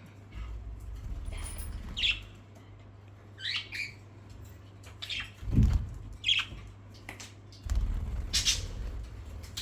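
Small pet parrots giving short squawks and chirps, about five separate calls spaced a second or more apart, over low rumbling noise that comes and goes.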